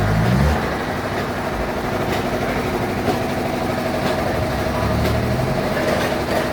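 Sawmill bandsaw machinery running steadily, a constant hum with a faint tick about once a second.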